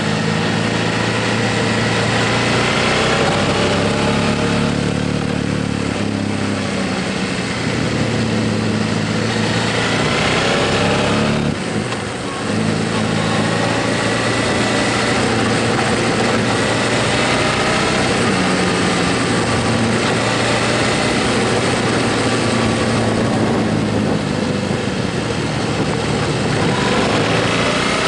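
Motorcycle engine running on the road, its note rising under throttle and stepping back down, with a brief drop in level about twelve seconds in; a steady rush of wind noise runs underneath.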